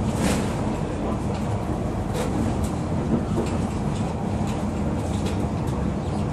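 Metro Trains Melbourne electric suburban train running: a steady low rumble of wheels on rail, with a few short sharp clicks scattered through it.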